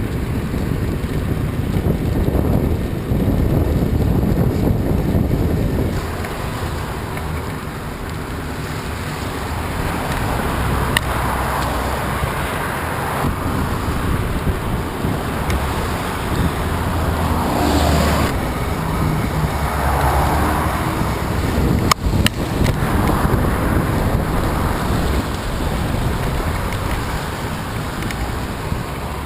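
Strong wind buffeting the microphone in a heavy, uneven low rumble, with a few sharp clicks.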